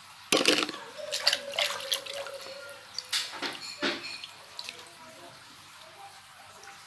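Water splashing and sloshing in a bucket as plastic toy animals are washed by hand: a run of irregular splashes and small knocks over the first four seconds or so, then quieter.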